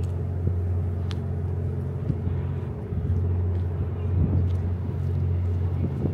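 JR West 87 series Twilight Express Mizukaze train pulling slowly away from the platform, its diesel generators running with a steady low drone, with a few light knocks from the wheels and running gear.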